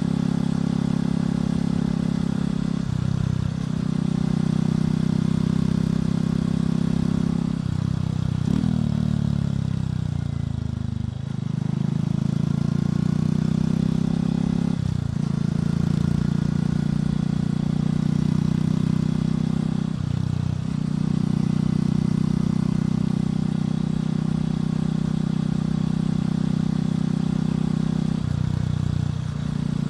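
Motorcycle engine and exhaust running under way, a steady low note with short dips every few seconds. About eight seconds in the pitch falls away for a few seconds as it slows, then climbs back up.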